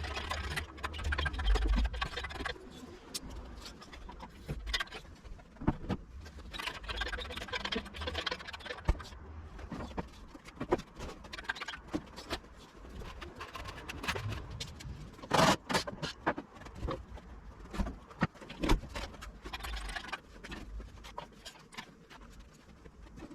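Irregular knocks, clunks and scrapes as a pickup's steel bed is lifted, blocked up on a 4x4 timber and slid across, with a low rumble in the first couple of seconds and a few louder bangs in the middle.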